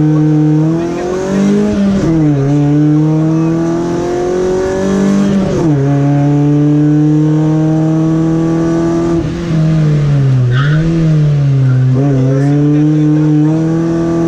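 Rally-prepared VW Golf engine running at high revs flat out on a stage. Its pitch drops and climbs back about four times as the driver lifts, brakes and changes gear.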